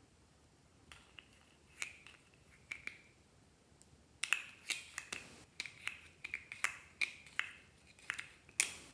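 Clear slime being squeezed and stretched by hand, making sharp, sticky pops and clicks. There are a few at first, then a quick run of them from about four seconds in; the loudest comes near the end.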